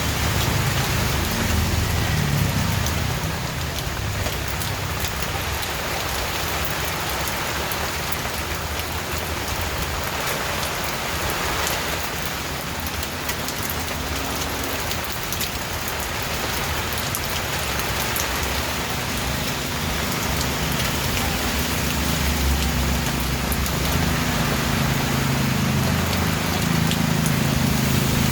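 Steady rain pattering on a surface, with a low rumble underneath that swells in the last third.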